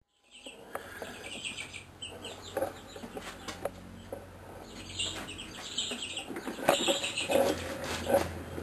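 Birds calling: short, rough calls come at irregular intervals, busiest near the end, over a low steady hum.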